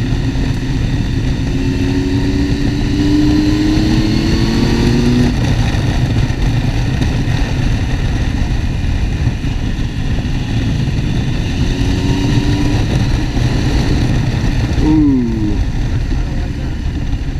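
Motorcycle engine running under way over steady wind and road noise; its pitch rises twice as it pulls through the gears and drops quickly near the end as it slows.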